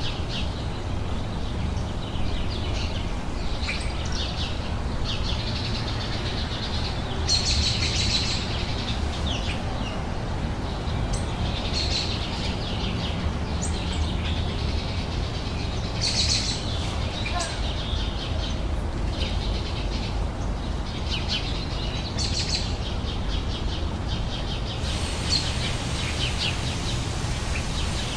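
Songbirds chirping and singing in short, repeated bursts, several calls overlapping, over a steady low background rumble.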